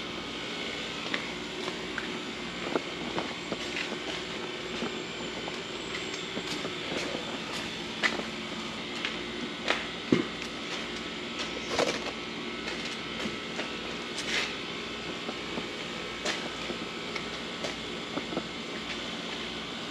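Steady mechanical hum with light clicks and knocks scattered through it, a few louder ones about halfway.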